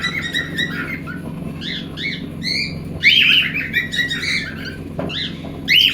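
Cockatiels chirping and calling: a string of short whistled chirps, then one longer call that falls in pitch about three seconds in.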